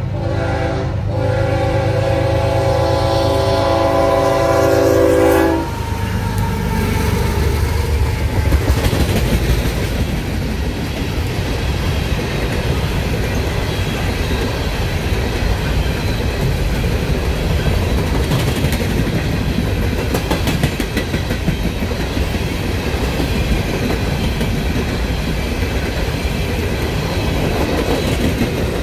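Horn of a CSX GE ES44AH diesel locomotive blowing a loud multi-note chord at a grade crossing, with a brief break about a second in, then cutting off sharply about five seconds in. After that an empty coal train rolls past, its gondolas rumbling and rattling with the clickety-clack of wheels over the rail joints.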